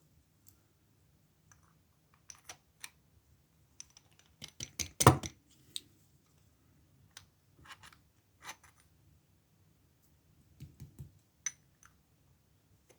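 Irregular small metal clicks and scrapes of a part being worked into a brass-and-steel padlock by hand during reassembly, with a cluster of louder knocks about five seconds in.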